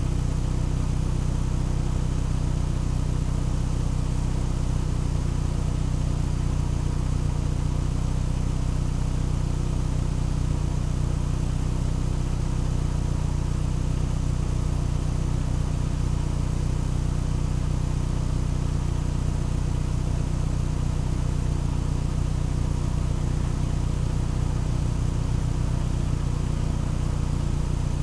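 Vehicle engine idling steadily: a low, even drone that never revs up or down.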